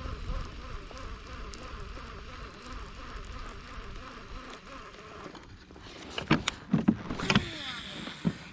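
Steady faint hiss, then a quick run of sharp knocks and clicks from fishing gear being handled in a plastic kayak, about six to seven and a half seconds in, with one more near the end.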